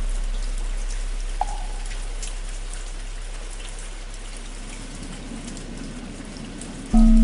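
Steady rain falling, under the long fading ring of a low-pitched bell. A single short wooden-fish knock sounds about a second and a half in, and the bell is struck again near the end, ringing out loud and low.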